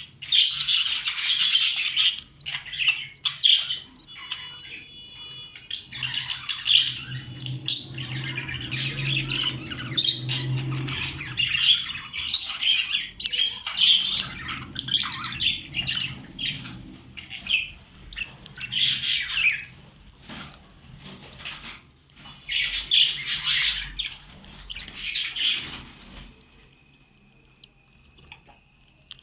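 Budgerigars chattering and chirping in repeated high-pitched bouts, quieter in the last few seconds.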